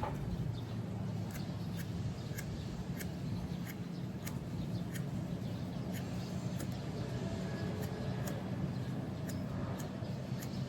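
Steady low background rumble with faint clicks scattered through it.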